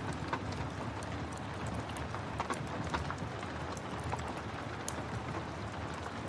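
Steady rain hiss mixed with scattered sharp crackles and pops of a wood fire.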